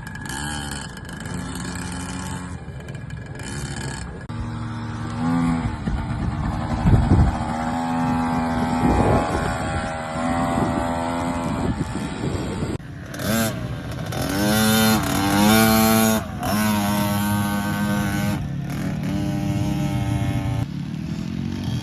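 KTM motocross bike engines running on a dirt track, revving up and dropping back repeatedly as the bikes ride and change gear.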